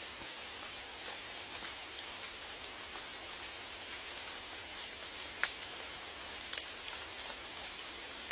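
Steady rain falling, with scattered single drops ticking on a surface and one louder drop about halfway through.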